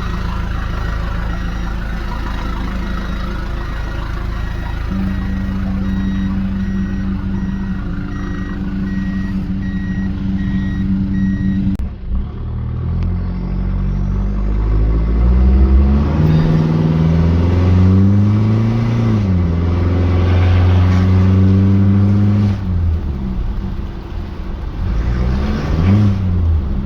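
Toyota KZJ95 Land Cruiser Prado's turbo-diesel four running through a new 3-inch turbo-back exhaust. For the first twelve seconds it runs steadily at low speed under a faint repeating beep. After a sudden change it pulls away, its pitch rising and falling through the gears, with a long steady stretch in the middle.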